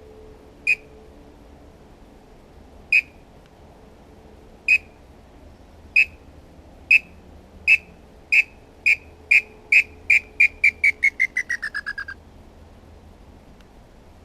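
Bird-call whistle (pio) blown to imitate a perdiz (tinamou): a series of clear, high whistled notes, slow at first and then quickening into a rapid run whose last notes fall in pitch before stopping.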